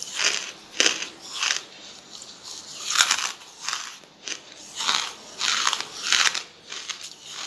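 Charcoal being bitten and chewed in the mouth: a string of irregular, crisp crunches, about one or two a second.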